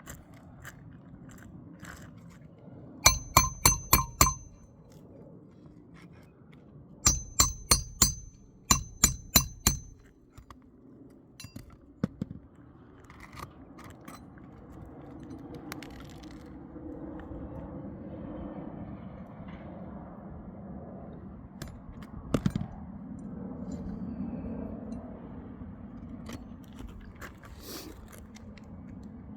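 Hand hammer driving roofing nails into asphalt shingles: three quick runs of ringing metal-on-metal strikes, about five a second, in the first ten seconds. After that come scraping and handling noises from the shingles, with a single knock later on.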